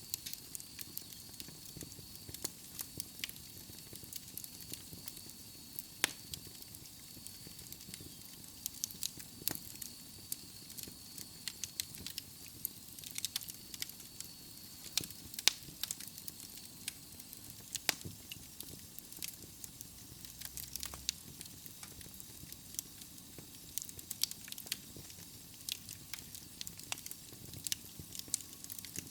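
Wood logs burning in a fireplace, crackling steadily with frequent irregular sharp pops over a soft hiss. A faint thin high whistle runs under it and fades out about two-thirds of the way through.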